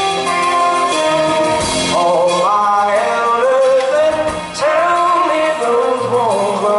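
Live rock band playing, with a male lead singer holding long notes with vibrato over guitar and band backing.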